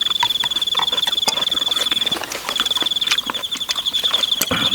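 An insect trilling in a high, fast-pulsing steady buzz that breaks off briefly about two seconds in, over scattered clinks and taps of spoons and chopsticks against bowls at a meal.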